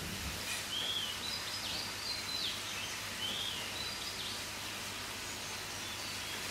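Steady background hiss with several short, high bird chirps during the first few seconds.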